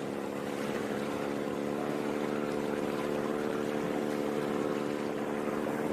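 Motorboat engine running at a steady, even pitch, with the rush of water and wind beneath it.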